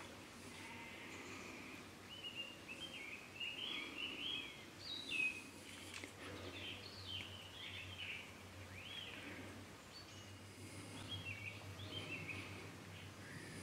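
Birds singing: a string of short, varied chirps and whistles, over a faint low steady hum.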